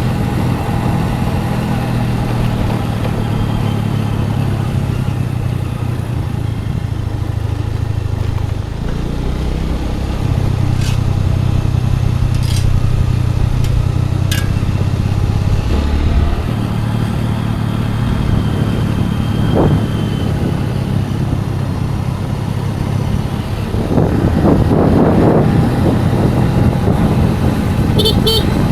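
Scooter engine running steadily under way, its note shifting briefly about nine and sixteen seconds in. A louder rush of noise comes in about twenty-four seconds in, and two short high beeps sound just before the end.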